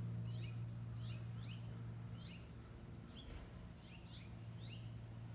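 Small birds chirping repeatedly in quick, short notes over a steady low hum.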